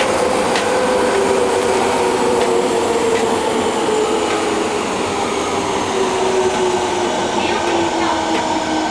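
Fukuoka City Subway 1000N-series train running, with a whine of several tones that slowly falls in pitch over the rumble of the car. The whine is the abnormal noise this car gives off, likened to the 'jet sound' of JR Kyushu's 811 series.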